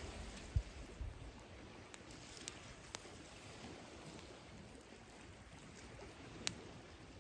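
Campfire crackling with a few sharp pops, the loudest about six and a half seconds in, over the soft wash of sea waves, with a low rumble of surf stronger at the start.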